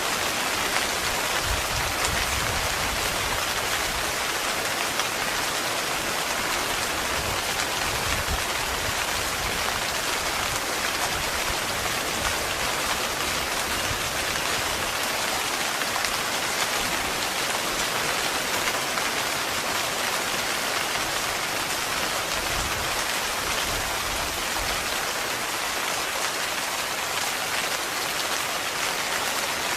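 Heavy, steady rain drumming on a tent's fabric in a dense, even patter.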